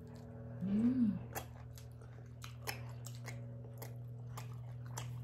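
People chewing soft steamed momos with their mouths, a run of small wet smacking clicks; about a second in, a short hummed "mm" rises and falls in pitch.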